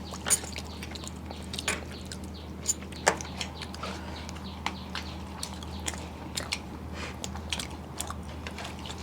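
Chewing and mouth sounds of eating: scattered short clicks and smacks, a few louder ones in the first three seconds, over a steady low hum.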